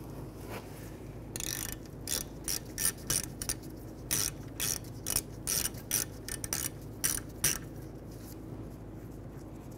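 Ratchet with a shallow 14 mm socket clicking in a run of short back-strokes, starting about a second in and stopping near the end, as a rear brake caliper bolt is loosened.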